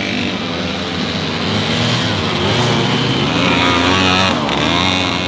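Vintage racing motorbike engines revving hard, the pitch climbing to its loudest about four seconds in, then briefly dropping off before picking up again.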